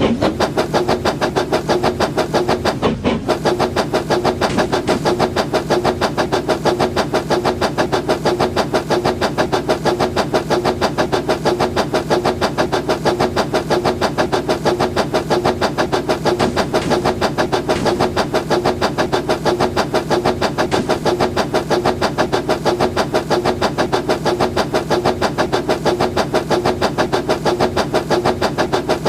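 Battery-powered building-block toy train running, its small motor and gearing making a steady whir with a fast, even clatter.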